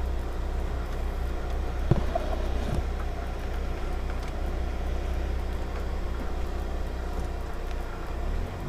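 Rally car engine idling steadily with a low rumble, and a single knock about two seconds in.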